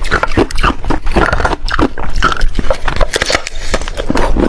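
Ice being bitten and crunched between the teeth close to the microphone: a rapid, irregular run of loud, sharp crunches.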